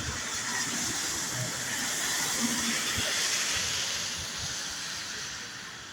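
A passing vehicle's tyres hissing on a wet road, swelling to a peak in the middle and fading away near the end.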